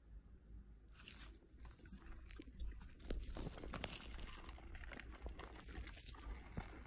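Close-miked eating: crunching and chewing with many small clicks, starting about a second in.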